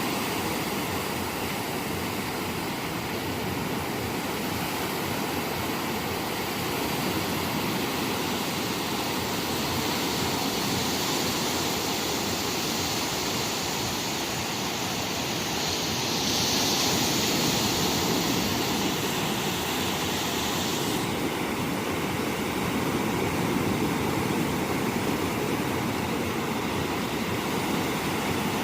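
Sea surf washing onto a sandy beach: a steady rushing noise that grows brighter and hissier through the middle, then settles again about two-thirds of the way through.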